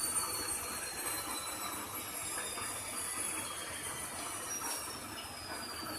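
Washing machine running, with a high whine that slowly falls in pitch.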